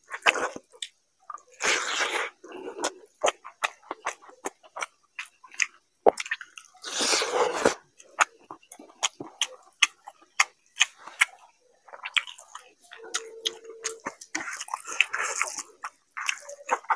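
Close-up chewing and wet mouth sounds of a man eating rice and fish curry by hand: many quick lip smacks and clicks, with a few longer squishy, noisy stretches about two and seven seconds in.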